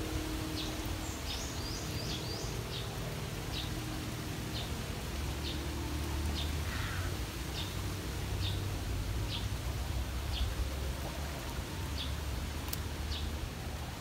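A bird giving short, high calls repeated about once a second, with a quick run of them in the first few seconds, over a steady low rumble of wind on the microphone.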